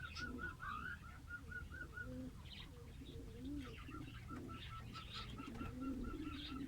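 Birds calling: a rapid run of repeated short high notes, about five a second, that stops for a couple of seconds near the middle and then resumes, over scattered sharper chirps and lower calls.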